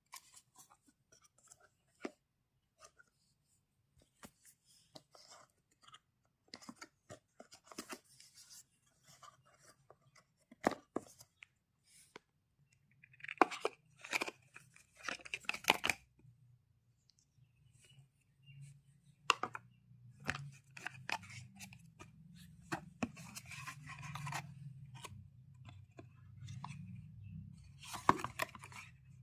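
Smartwatch packaging being opened by hand: scattered clicks and taps, with louder bursts of tearing and rustling about halfway through and again near the end.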